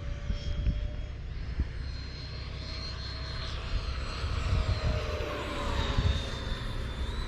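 Radio-controlled model jets flying overhead with a steady high whine. One makes a louder pass about five to six seconds in, its pitch falling as it goes by. Wind buffets the microphone.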